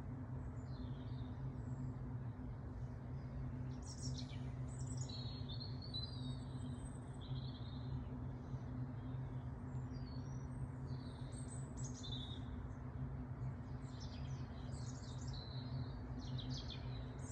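Garden songbirds singing in short, repeated warbling and chirping phrases, over a steady low hum.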